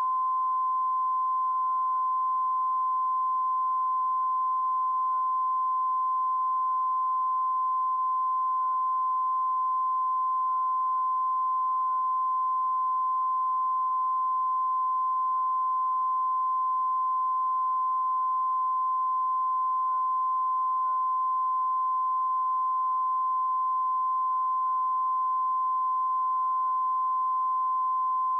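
A steady, unbroken test tone at about 1 kHz, holding one level: a TV channel's line-up tone, broadcast after programming has stopped.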